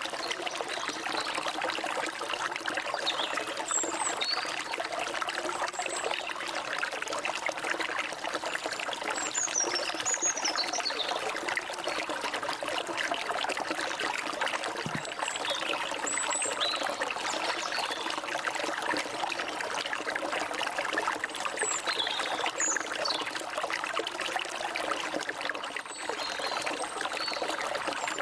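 Forest stream flowing steadily, with birds singing scattered short high chirps and whistled glides over it.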